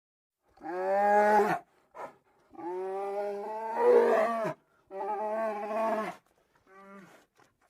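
A bear giving a series of long, pitched calls, four of them lasting one to two seconds each plus a short one near the end, with dead silence between them.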